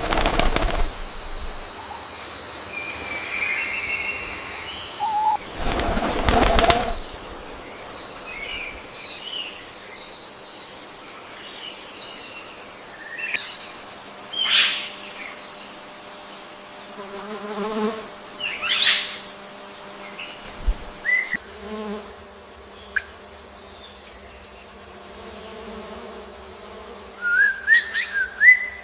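Birds chirping and calling in short scattered phrases, with bursts of flapping wings near the start and about six seconds in, and a quick run of chirps near the end.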